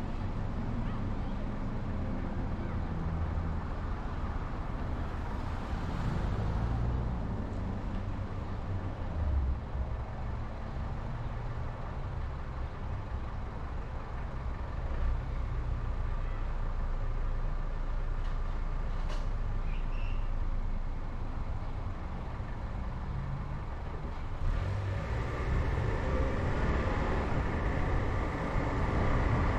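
Road and engine noise of a car being driven: a steady low rumble that grows louder near the end.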